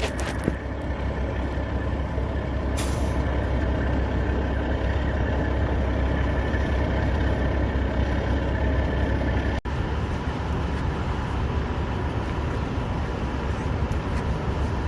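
Heavy truck engine idling with a steady low rumble, with a short high hiss about three seconds in.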